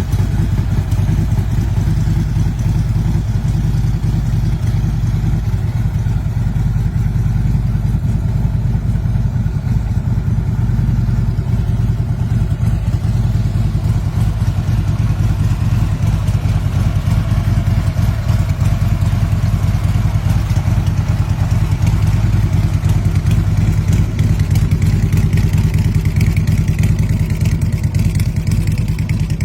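Harley-Davidson Electra Glide Ultra Limited trike's V-twin engine running steadily at idle.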